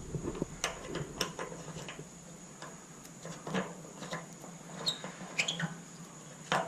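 Scattered light clicks and small metal knocks from handling tools and the rusted handle hardware of a charcoal grill, with a couple of brief high squeaks about five seconds in.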